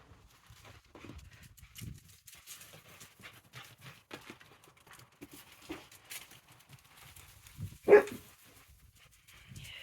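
Dogs scuffling, with scattered small clicks and knocks, and one loud, short dog bark near the end.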